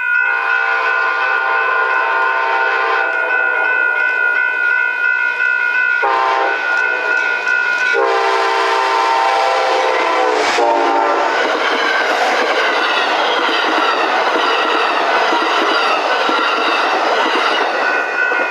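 Train horn sounding a long blast, briefly broken about six seconds in, then sounding again before cutting off about eleven seconds in. Then the train passes close by with the rumble and clatter of its wheels on the rails.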